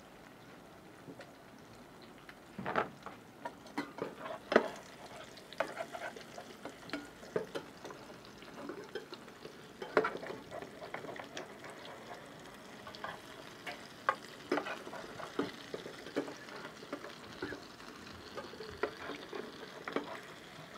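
Egg omelette frying in oil in a pan, a steady sizzle. From about two and a half seconds in, a spatula repeatedly scrapes and taps against the pan.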